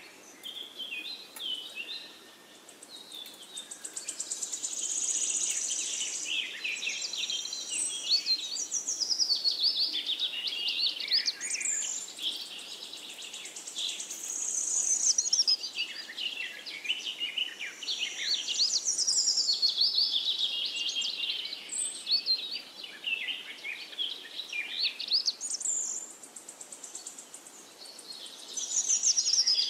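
Songbirds chirping and singing, a dense chorus of quick rising and falling calls that swells and fades every few seconds.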